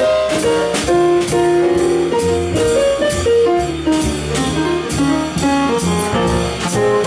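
Live band playing an instrumental break in a jazzy rhythm-and-blues tune: a lead melody line over piano, bass and a drum kit keeping a steady beat.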